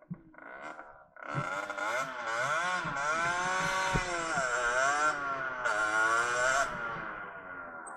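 Derbi Senda R's small two-stroke motorcycle engine revving under way: from about a second in, its pitch climbs, drops back and climbs again several times as the rider accelerates and eases off. It dies down near the end, with a single short knock midway.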